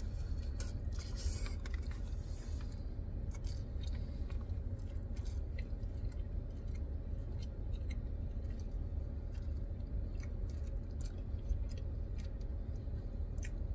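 A person chewing a mouthful of cheesesteak, with small mouth clicks and the paper wrapper rustling in the first few seconds, over a steady low rumble.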